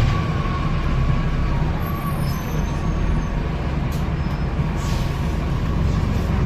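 Wright StreetDeck bus's Mercedes-Benz (Daimler) OM934 diesel engine running with a steady low drone, with a short hiss about five seconds in.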